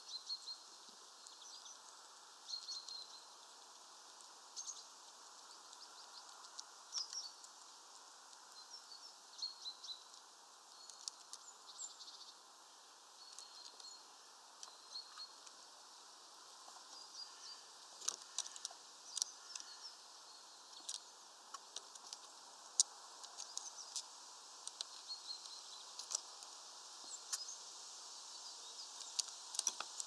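Small birds chirping off and on in short high calls, with scattered sharp clicks and taps that come more often in the second half.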